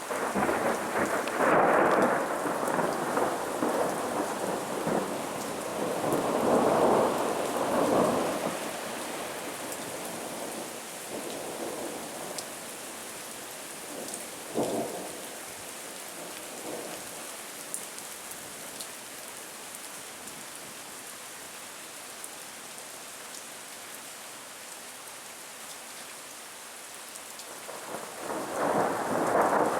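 Thunder rolling over a steady hiss of rain. There are two long, loud rolls near the start and around seven seconds in, a shorter, sharper clap about halfway, and another loud roll building near the end.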